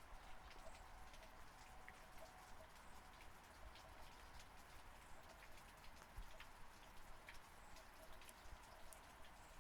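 Quiet, steady rain: a soft hiss with individual raindrops tapping irregularly throughout.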